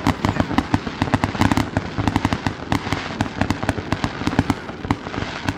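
Fireworks going off in a rapid, unbroken string of bangs and crackles, many every second.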